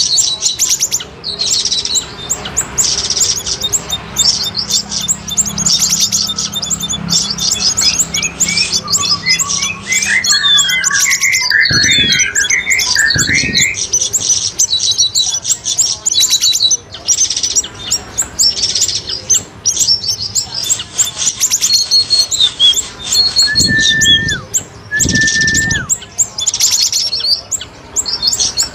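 Bird-trapping lure recording of cucak rawis and siri-siri songbirds: dense, rapid high chirping and twittering, with a run of quick warbling notes around ten seconds in and two short level whistles near the end.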